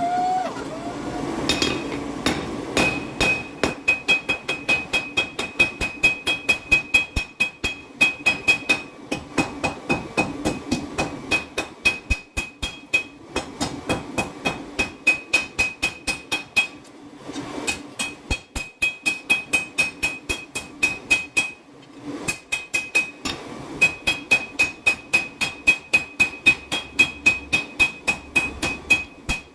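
Hammer blows on 5160 leaf-spring steel on an anvil, hand forging a knife blank: steady strikes about three a second, each leaving a ringing note from the anvil, in runs broken by short pauses. A steady noise fills the first couple of seconds before the hammering starts.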